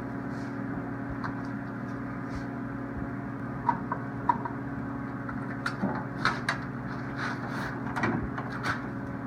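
Scattered light clicks and knocks, a few sharper ones about four seconds in and a cluster in the second half, from a screwdriver taking out a tail light's bottom screw and the plastic lamp housing being handled. A steady low hum runs underneath.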